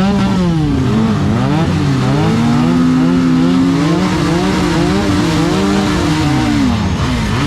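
Several Benelli motorcycle engines revving together, their pitch rising and falling over and over, held high for a couple of seconds in the middle.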